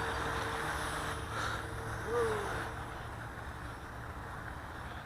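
Electric RC model airplane's motor and propeller whining steadily at full throttle on a takeoff attempt, fading away over the first couple of seconds, over a low steady rumble.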